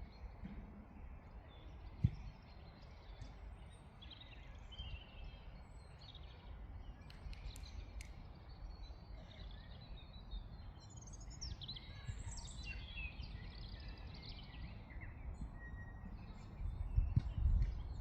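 Several small songbirds chirping and trilling over a steady low background rumble. There is a single sharp knock about two seconds in, and the rumble swells louder near the end.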